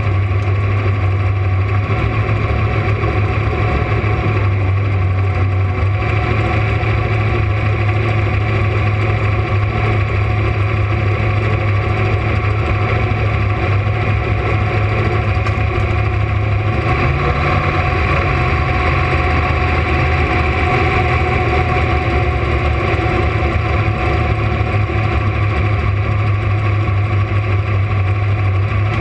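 Camaro drag car's engine running steadily at low revs, loud and unchanging, with a slight shift in its note a little past halfway.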